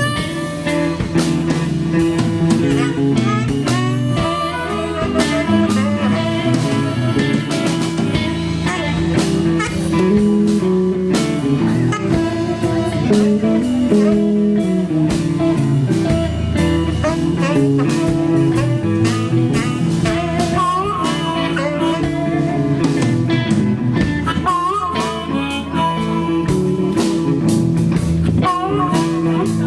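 Live rock band playing an instrumental jam: lead guitar bending notes over bass and drums.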